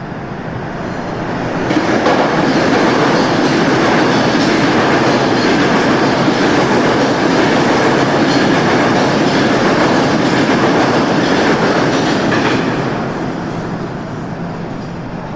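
LEGO train rolling along its track, its motor and wheels giving a steady clatter. The sound swells over the first two seconds, holds steady, and fades from about twelve seconds in as the train moves away.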